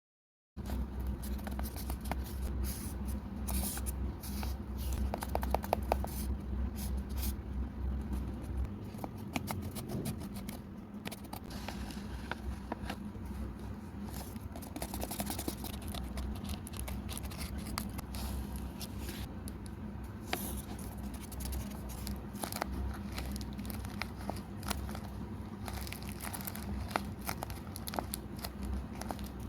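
Close-up paper-craft handling noise: paper crinkling and scraping, with snipping and tape-like tearing, in quick irregular clicks over a steady low hum. It starts abruptly about half a second in.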